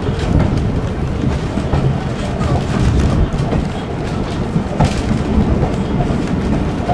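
Heritage railway carriage running along the track: a steady low rumble of wheels on rail with scattered clicks from the rail joints.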